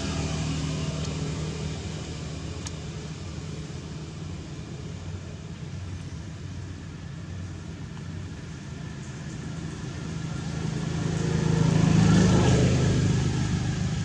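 A motor vehicle's engine running steadily, then another vehicle getting louder, passing close about three-quarters of the way through, and fading.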